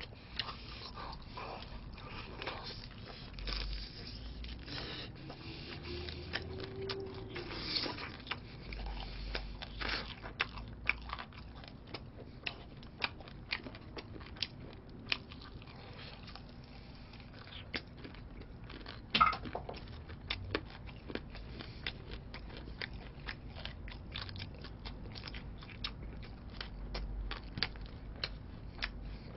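Crispy fried chicken being bitten and chewed close to the microphone: a run of many short, sharp crunches of the fried batter with chewing between them, one louder crunch about two-thirds of the way through.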